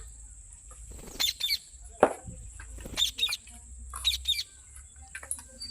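Pet Alexandrine parakeet (pahadi tota) giving short, sharp chirping calls, one about every second.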